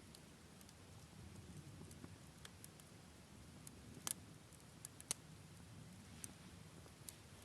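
Wood campfire in a Picogrill-style fire stand burning quietly, with sparse sharp crackles and two louder pops about four and five seconds in, over a faint low rumble.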